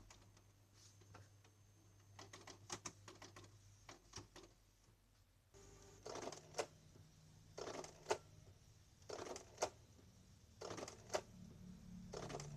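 Canon G2000 inkjet printer running with scattered clicks, then its printhead carriage sweeping to and fro with a click at each pass, about every one and a half seconds from about halfway in. Running quietly, with the carriage's dried grease replaced by white grease.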